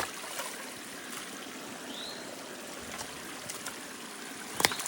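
Water trickling and running steadily through a beaver dam in a swamp. A short rising chirp sounds about two seconds in, and a sharp knock near the end is the loudest moment.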